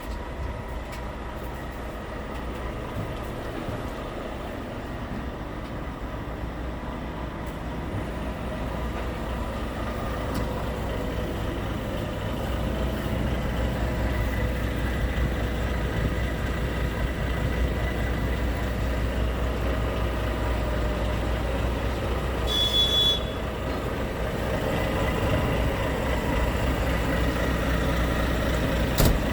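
Scania P truck's diesel engine running steadily. It grows louder about twelve seconds in, with a short high-pitched tone about three quarters of the way through.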